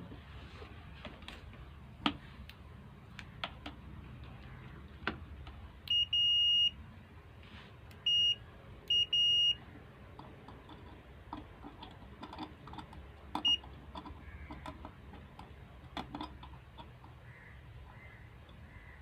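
Multimeter continuity beeper sounding a steady high beep about six times, some short and some held for half a second, as the probes touch the kettle's reconnected wiring, a sign of an unbroken circuit. Small clicks and taps of handling the kettle parts come in between.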